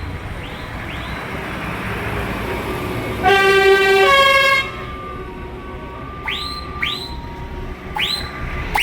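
A vehicle horn sounds one long blast of about a second and a half, a little over three seconds in, its pitch dropping slightly partway through, over a steady engine rumble. Short rising siren-like whoops come several times.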